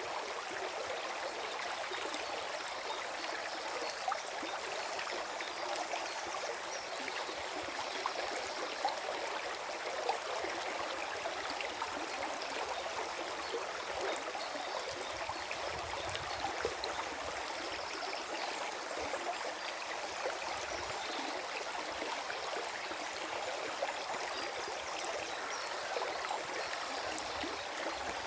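Small forest stream flowing and gurgling steadily over stones, with fine splashing and trickling.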